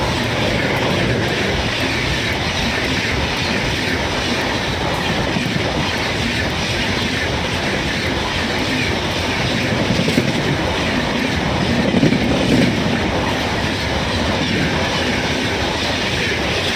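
A train running along the track, with the steady rumble and clatter of its wheels on the rails.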